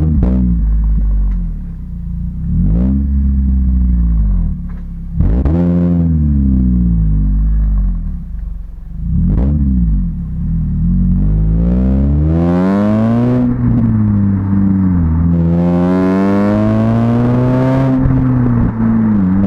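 Honda Civic Type R FN2's 2.0-litre four-cylinder through a Magnaflow exhaust, blipped quickly four times from idle, then pulled up to high revs twice with a drop in revs between them and falling back near the end.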